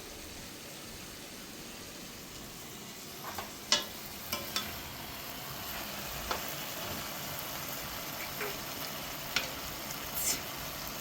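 Food sizzling in a frying pan: a steady hiss, with a few sharp clicks scattered through it, the loudest a little under four seconds in.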